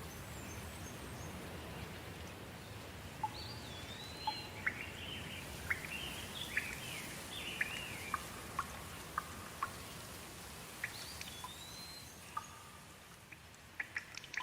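Steady soft rain, with a bird calling over it: rising and falling whistled notes and quick chirps through the middle. Sharp drips tick more often near the end.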